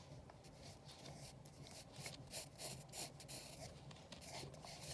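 Pencil sketching on paper: faint, quick scratchy strokes in an irregular run.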